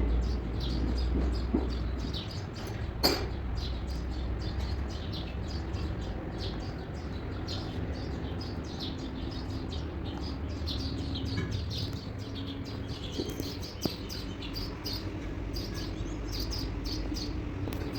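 Small birds chirping repeatedly, with a low rumble in the first couple of seconds and one sharp click about three seconds in.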